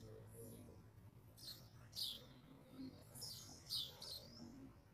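Small birds chirping: short, high chirps that sweep downward, mostly in pairs about half a second apart, repeated several times.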